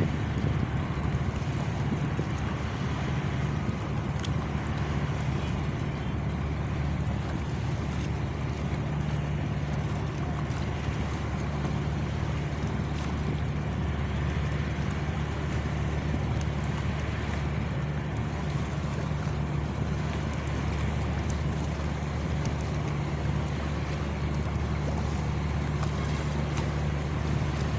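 A small cargo ship's engine drones steadily, with rushing wind and water noise over it.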